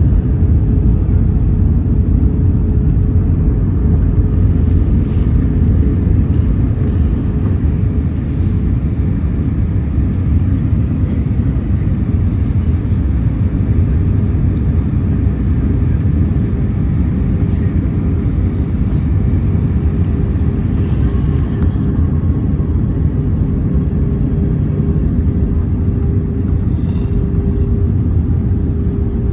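Airliner cabin noise in flight: a steady low rumble of engines and rushing air, with a steady droning tone that comes through more clearly in the second half.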